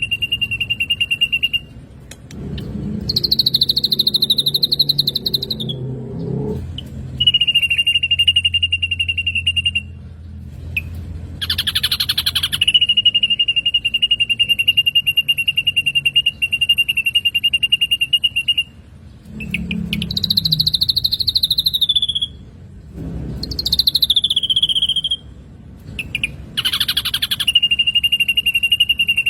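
Black drongo calls: long, fast-pulsing trills held on one high pitch for several seconds, alternating with shorter, higher trills that fall in pitch.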